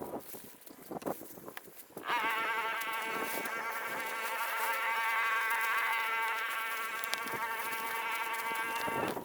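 A small motor running with a steady, slightly wavering whine, starting suddenly about two seconds in and cutting off near the end.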